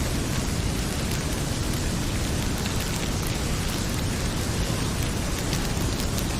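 Heavy rain pouring steadily, with a few small crackles from a wood fire in a fireplace.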